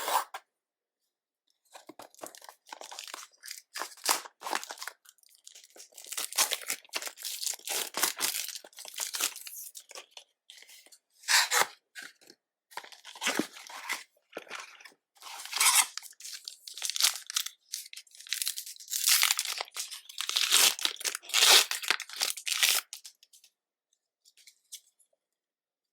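Packaging of Pokémon trading card booster packs being torn open and crinkled, in a run of irregular crackling bursts with short pauses.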